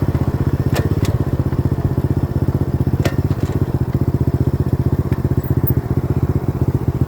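A 90cc dirt bike's small single-cylinder engine running steadily under way, with a fast, even firing pulse. A few sharp clicks sound over it, about a second in and again near three seconds.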